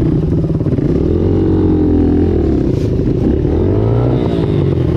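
Dirt bike engine running under load, its pitch rising and falling as the throttle is opened and eased off.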